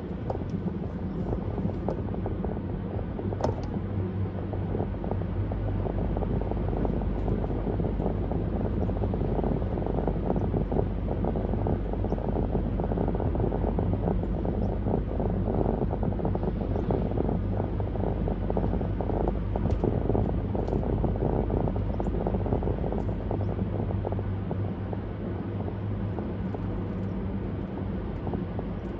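Steady road noise of a car cruising on a highway: tyre rumble and a low engine hum, with no sharp events.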